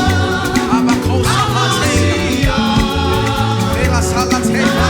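Live gospel praise band playing an up-tempo groove, with bass, keyboards and drums under singing voices.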